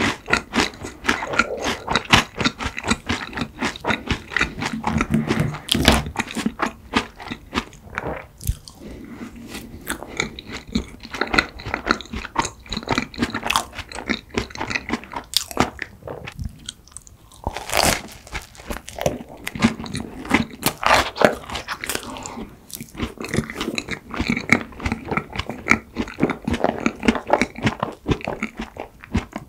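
Close-miked chewing and crunching of mint chocolate ice cream cake, a dense run of crisp crackles and wet mouth sounds, with a brief lull a little past halfway.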